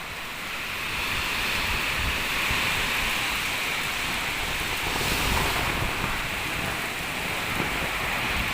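Strong wind blowing, with gusts buffeting the microphone in irregular low rumbles over a steady rushing hiss.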